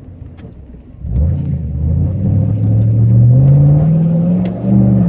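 A 5.7 L LS1 V8 in a 1999 Chevrolet Camaro Z28, breathing through an SLP Loudmouth 1 cat-back exhaust, heard from inside the cabin as the car pulls away. After about a second of quieter running, the engine note climbs steadily for about three seconds, dips briefly and then holds steady.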